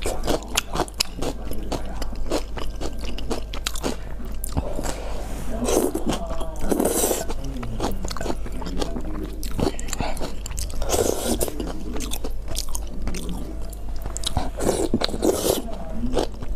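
A person eating close to the microphone: repeated biting and chewing with many small wet mouth clicks, and a few louder bites or slurps spaced several seconds apart.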